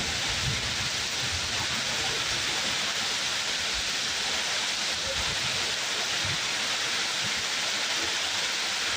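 Steady, heavy rainfall, an even hiss of rain with no breaks.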